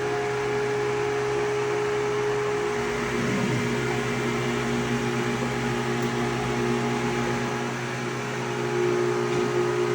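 Steady electric machinery hum, fan-like, made of several steady tones; a further tone joins about three seconds in.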